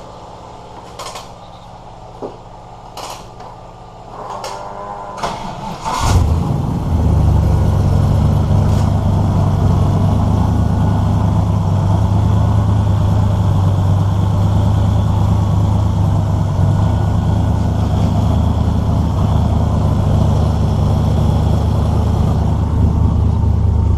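Chevy 350 small-block V8 in an S10 pickup being started: a few clicks and a brief crank, then it catches about six seconds in and settles into a loud, steady idle.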